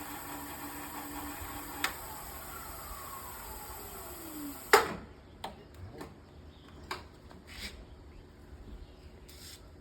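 Electric bike hub motor whining steadily, its pitch falling as the wheel spins down, then one loud knock about five seconds in, followed by several lighter clicks and knocks of handling.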